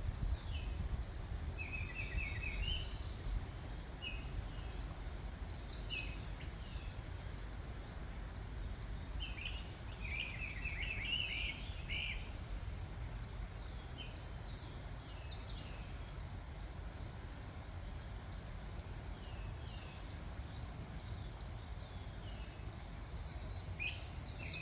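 Songbirds singing in a spring morning chorus: several trilled and warbling phrases come and go over a steady run of high ticking notes, about three a second. A low rumble of background noise runs underneath.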